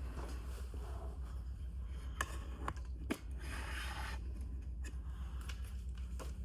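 Camera gear being handled: a few sharp clicks and a brief scrape or rub, over a steady low hum.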